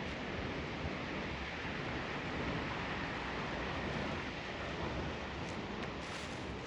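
River water running steadily, a constant rushing with no break, with a few faint rustles near the end.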